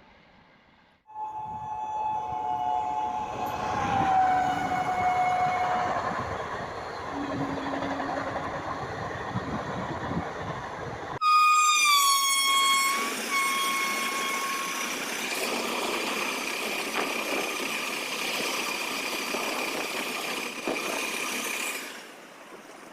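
Two Indian express trains running through a station at speed, one after the other. Each blows its locomotive horn as it approaches, with the pitch dropping as it passes, followed by a steady rush of rolling stock. The second horn is sounded twice.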